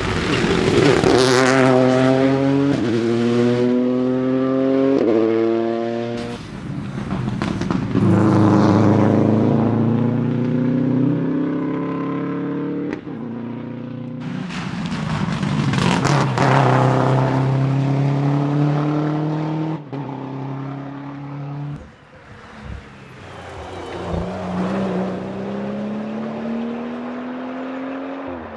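Rally cars at full throttle: the engine note climbs and drops back sharply at each quick upshift, about five shifts in the first six seconds, followed by several more long pulls through the gears.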